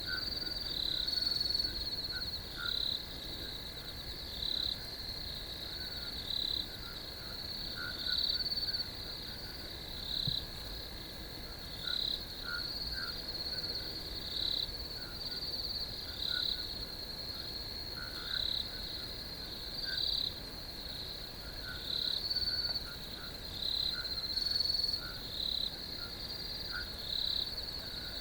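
Crickets chirping in a steady high-pitched chorus, with a louder pulsing call repeating about once a second.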